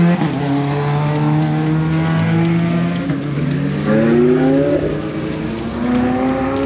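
High-performance car engine running at speed: a steady held note, then revs climbing and dropping in steps from about three seconds in as the car accelerates through its gear changes.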